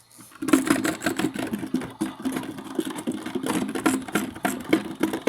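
Washing machine running, starting abruptly about half a second in: a steady motor hum with fast, uneven rattling, as it drains its water or begins its spin.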